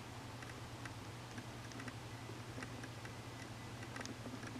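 Faint, irregular light clicks and ticks over a steady low hum.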